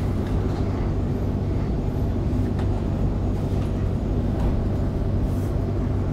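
Electric suburban train running at speed, heard from inside the carriage: a steady low rumble with a few faint clicks.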